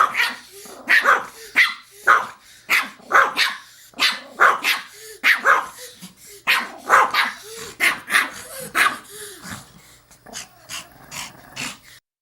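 Pomeranian barking sharply and repeatedly, about two to three high-pitched yappy barks a second, the agitated barking of an angry small dog. The barks thin out and soften in the last couple of seconds, then stop abruptly.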